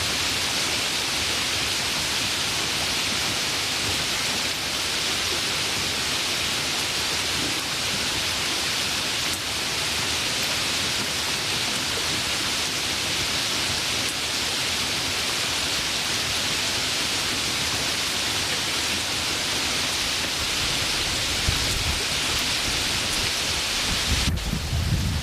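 Steady, even hiss of rain. Near the end the sound changes and a low rumble comes in and grows louder.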